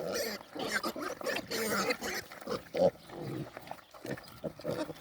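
Four-week-old Idaho Pasture Pig piglets grunting and squealing in short, irregular calls while squabbling over food, with one louder call a little before three seconds in.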